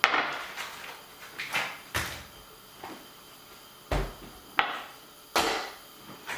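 A series of sharp knocks and clunks from kitchen items being handled and set down, about eight spread over a few seconds, each dying away quickly.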